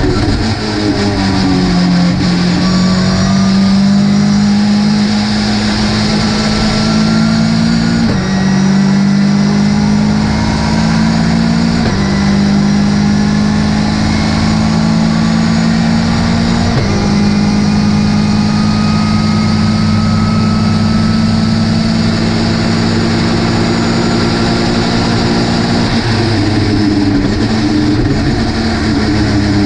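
Ginetta GT5 race car's engine running hard at high, steady revs, with several brief steps in pitch from gear changes or lifts of the throttle. Near the end the revs come down and vary, as in braking and downshifting.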